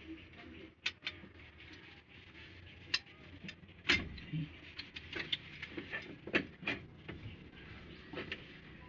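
Irregular sharp clicks and knocks of metal tools and engine parts being handled, about a dozen of them with uneven gaps, the loudest about four seconds in.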